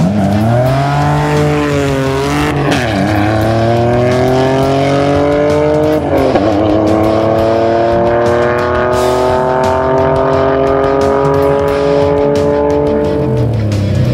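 V6-swapped Toyota MR2 accelerating hard through the gears: the engine's pitch climbs, drops at two upshifts about 2.5 and 6 seconds in, then climbs slowly for several seconds before the driver lifts off near the end.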